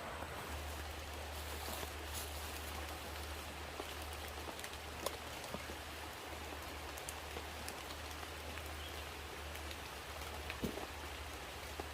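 Steady rain falling, with scattered individual drops ticking sharply over an even hiss, and a low steady rumble underneath.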